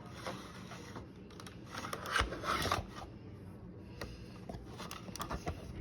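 A dog's paws tapping and scratching at a computer keyboard: irregular clicks and scrapes, loudest and busiest about two seconds in.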